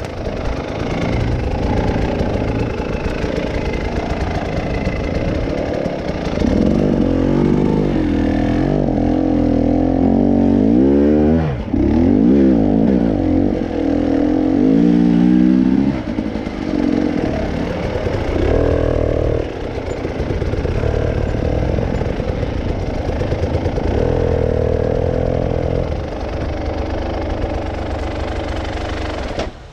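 Off-road vehicle's engine running and revving in several swells, its pitch climbing and dropping again and again.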